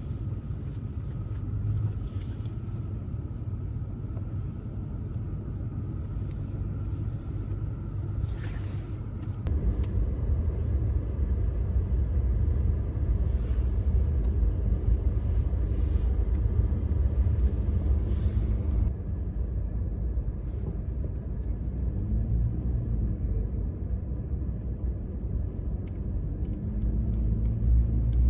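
Vehicle driving, heard as a steady low rumble of engine and tyres that grows louder about ten seconds in. A faint steady whine runs until that point.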